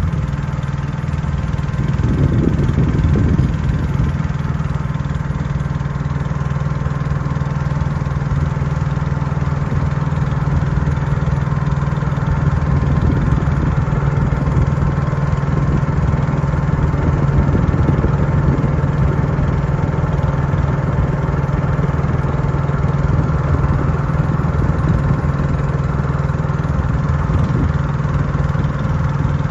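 Boat engine running at a steady, even hum.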